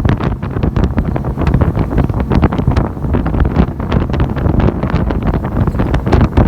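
Wind buffeting the microphone on a boat under way: a loud, steady low rumble broken by constant short crackles.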